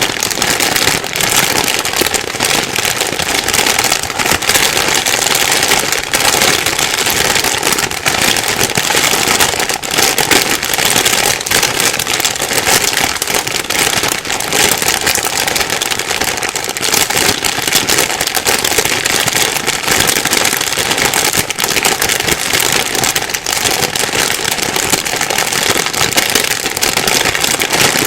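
Plastic bag being rustled and crumpled without pause, a dense steady crackle made of many fine crinkles.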